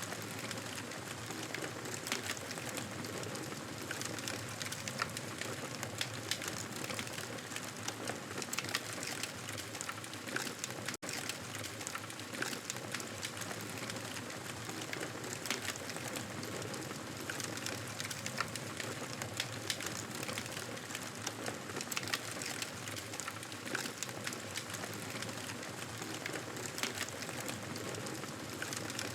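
Campfire burning with a steady hiss and frequent sharp crackles and pops of burning wood, with a momentary break about eleven seconds in.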